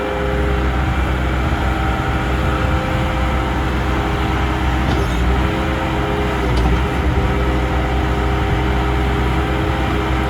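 A 2000 Bobcat 864G High Flow loader's diesel engine running steadily, with its note dipping briefly twice near the middle.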